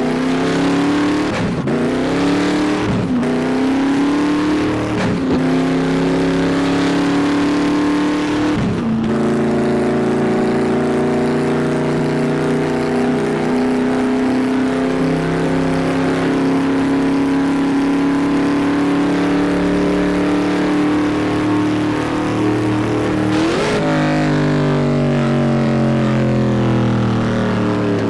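Car engine accelerating up through the gears: the pitch climbs and drops back with each of four shifts in the first nine seconds, then holds steady at cruising speed. Near the end the revs jump briefly, then fall away as the car slows.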